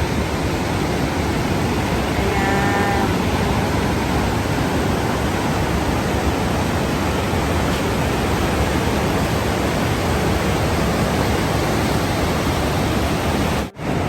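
Khone Phapheng waterfall on the Mekong, a steady, loud rush of falling water. The sound drops out for an instant near the end.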